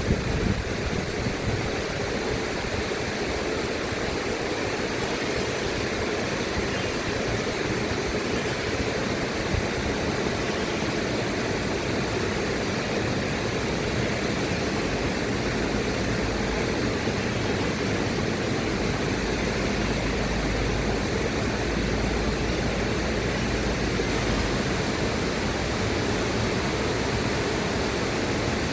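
Steady rushing of river water, an even unbroken noise with no distinct splashes.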